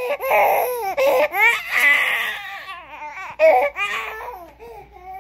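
Baby making a run of high-pitched vocal noises, squeals and babbling whose pitch swoops up and down, fading off near the end.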